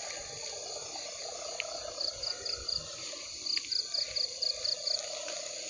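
Crickets chirping at night in repeated trains of quick, high pulses, about six to eight a second, over a steady lower drone of night insects.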